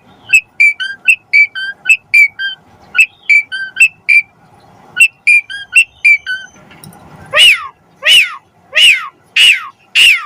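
Pied starling (jalak suren) singing: a quick run of short chirping notes, then, from about seven seconds in, a series of loud descending whistles about two-thirds of a second apart.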